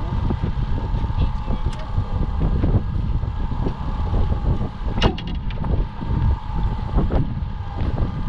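Boat's outboard motor running at trolling speed under heavy wind buffeting on the microphone, with a sharp click about five seconds in.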